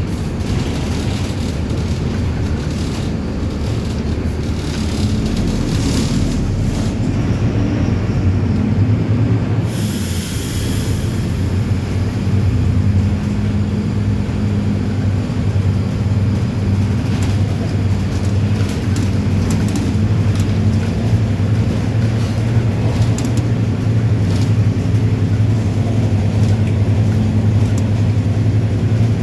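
Diesel engine of a Mercedes-Benz 1724L bus running steadily, with a short hiss about ten seconds in.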